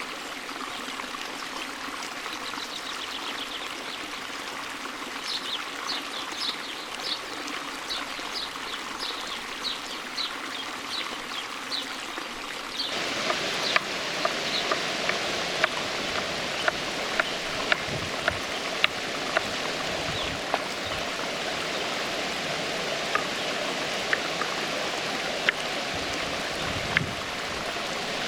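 Creek water flowing steadily. In the first half a bird repeats a short high note about twice a second. About halfway through, the water sound abruptly gets louder, and scattered sharp clicks and pops follow.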